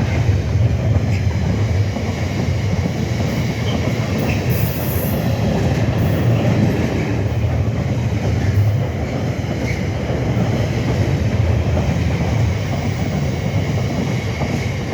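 Freight train rolling past: a steady, loud rumble of wagon wheels on the rails, with faint wheel squeal.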